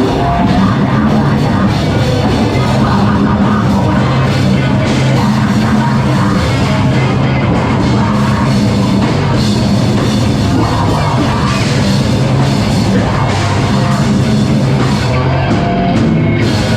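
A live heavy rock band playing loud and continuously: pounding drum kit, distorted guitars and bass, with some singing.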